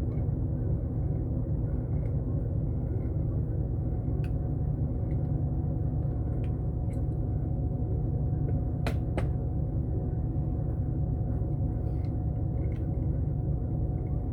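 An engine running steadily at idle, an even low drone. There are a few sharp clicks, two of them close together about nine seconds in.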